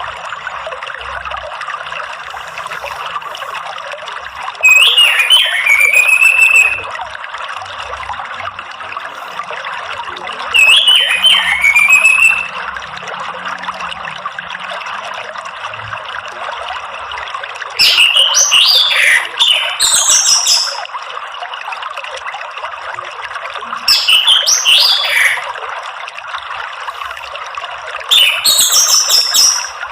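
Orange-headed thrush song in five separate phrases, each a second or two long, over a steady trickle of running water.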